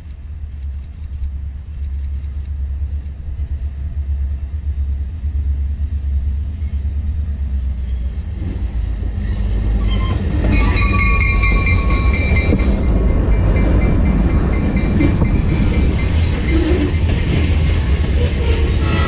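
A diesel-hauled freight train approaches with a low rumble that grows steadily louder. About ten seconds in, the lead locomotives pass close by and high ringing tones sound briefly. Then the hopper cars roll past with steady rolling wheel noise.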